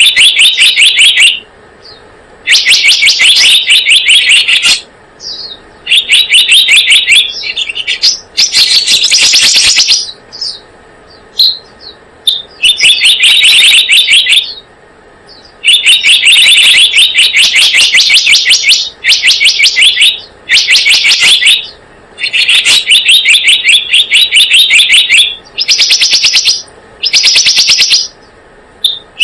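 Lure-call recording of the selendang biru bird: loud runs of rapid, high chirping notes, each run lasting about one to two seconds, repeated again and again with short pauses between them.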